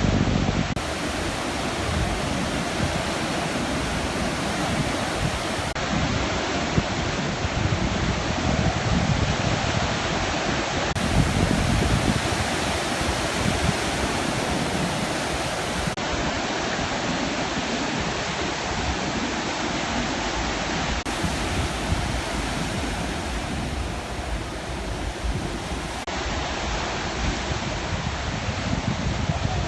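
Heavy sea surf, waves of two to three metres breaking and washing on the shore: a continuous rushing noise that swells and eases.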